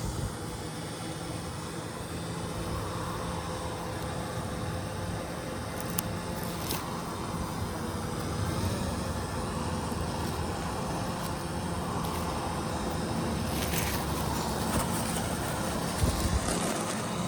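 Steady low outdoor rumble with a faint steady hum, broken by a few sharp clicks and knocks.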